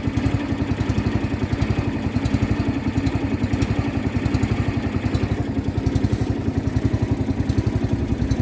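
Small boat engine running steadily with a rapid, even pulse.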